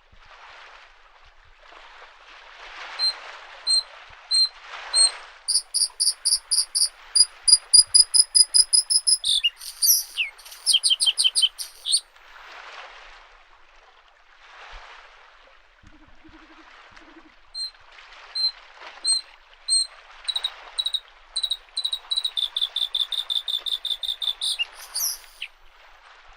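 A bluethroat sings two song phrases, each starting with spaced single high notes that speed up into a fast trill. Beneath it, small lake waves lap the shore in soft, repeated swells.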